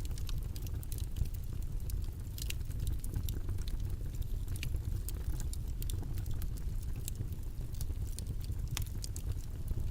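Steady low rumbling background noise with many small, irregular clicks and taps scattered through it.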